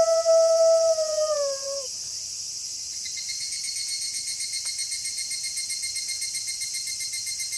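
A wolf howling: one long note held on a steady pitch that drops and fades away about two seconds in. Night insects chirp in a fast, even pulse behind it, plainer once the howl has ended.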